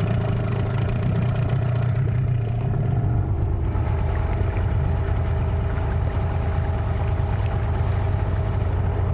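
Small boat's outboard motor running steadily at low speed, its pitch easing down slightly about three and a half seconds in.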